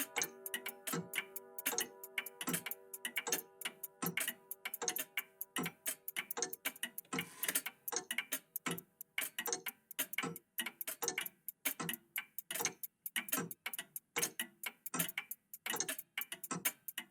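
Several old mechanical clocks ticking out of step, several ticks a second in an uneven, overlapping pattern. In the first few seconds the tones of a clock chime ring on and fade away.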